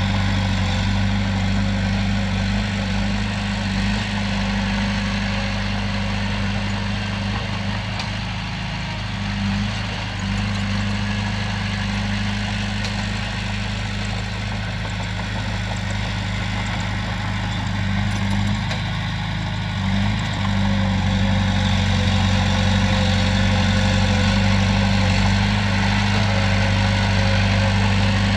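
Komatsu bulldozer's diesel engine running steadily with a deep, even drone, dipping briefly about ten and twenty seconds in.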